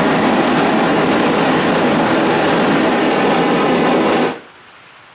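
Homemade propane forge burners burning with a steady, loud roar of gas and flame. The roar stops abruptly about four seconds in.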